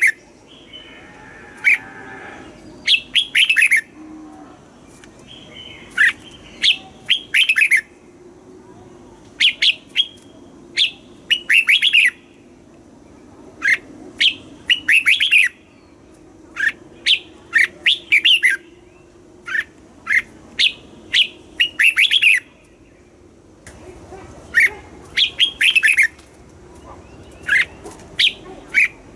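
Red-whiskered bulbul singing: short phrases of quick, clear whistled notes, repeated every second or two, with a short pause a little past the middle.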